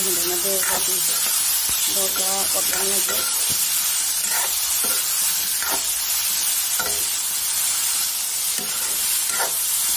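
Taro pieces and fish frying in hot oil in a metal pan, sizzling steadily, with a metal spatula scraping and stirring against the pan about once a second.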